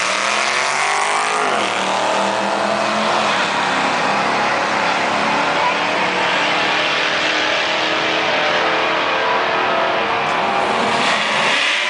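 Camaro SS V8 engine revving up sharply over the first second or so, then held at high, steady revs for about ten seconds under a steady rushing noise.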